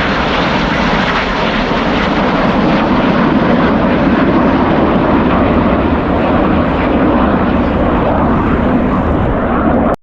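Loud, steady jet noise from the Red Arrows' BAE Hawk T1 jets flying their display, cutting off suddenly at the end.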